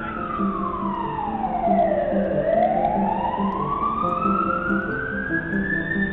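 Emergency vehicle siren in a slow wail: the tone falls steadily for about two seconds, then climbs back up over the next three to four seconds. A low pulsing hum runs underneath.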